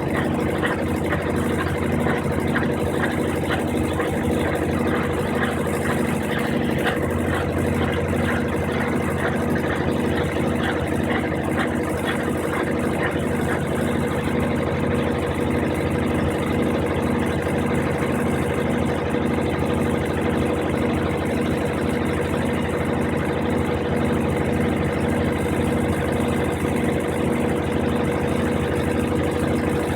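Brastemp 15 kg washing machine running steadily: a continuous motor hum with a faint regular pulse a little over once a second, its low hum growing stronger about seven seconds in.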